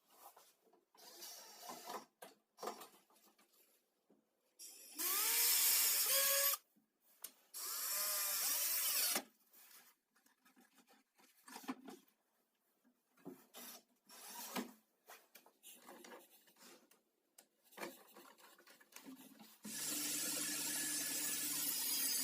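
Power tool motor run in two short bursts that rise in pitch and cut off sharply, with knocks and clatter of workpieces in between. Near the end the motor starts again and runs steadily.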